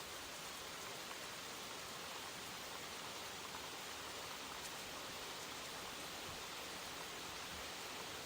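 Steady, even hiss of rain falling in woodland, with no single drops or thunder standing out.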